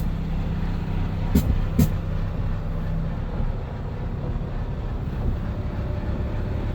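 IVECO Stralis AS440S46 truck's six-cylinder diesel engine idling steadily, with two sharp clicks about a second and a half in.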